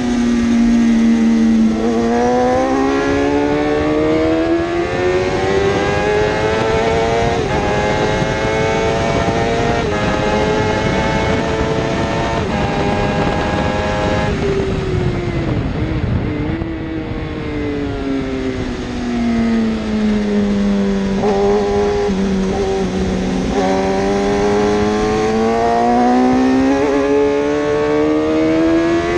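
A 1000cc superbike engine at racing speed, accelerating hard with quick upshifts during the first half. Around the middle it drops in pitch and wavers as the rider brakes and downshifts. It then winds up again through the gears.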